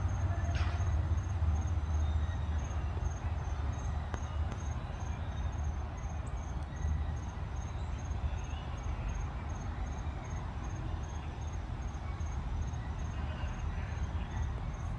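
An insect chirps steadily on one high note, about two pulses a second, over a constant low rumble. A few faint bird calls come in near the middle and again near the end.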